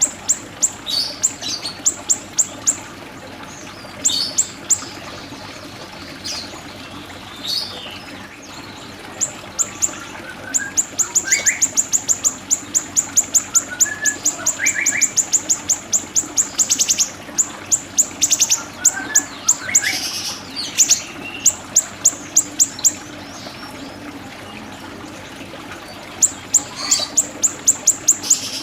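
Siri-siri bird singing: long, rapid trains of high-pitched chips, about ten a second, lasting several seconds each with short pauses between, mixed with occasional short rising whistled notes lower in pitch.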